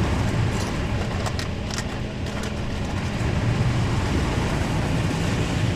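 Automatic car wash equipment running, heard from inside the car: a steady low rumble with a hiss over it and a few faint clicks.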